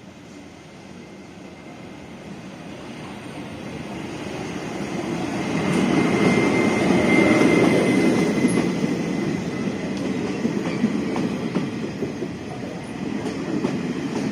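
A Chu-Kuang express train pulling into an underground station platform. It grows steadily louder as it approaches, is loudest about six to eight seconds in with a brief high wheel or brake squeal, then keeps rumbling and clattering past as it slows.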